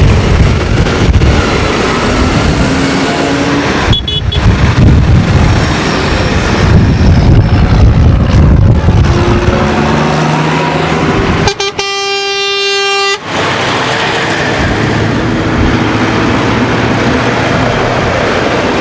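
Tractor engines running loudly on the road, with a single horn blast lasting about a second and a half about twelve seconds in.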